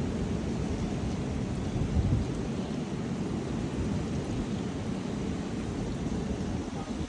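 Strong wind buffeting the microphone: a steady low rumble that rises and falls in gusts, swelling briefly about two seconds in.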